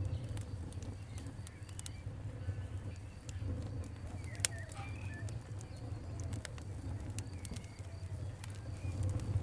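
Wood fire crackling: scattered sharp pops, one louder about four and a half seconds in, over a low steady rumble, with faint bird calls in the background.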